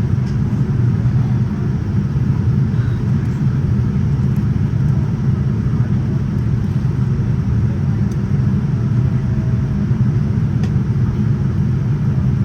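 Steady low rumble inside the passenger cabin of a Boeing 787-9 in flight: airflow and engine noise during the descent.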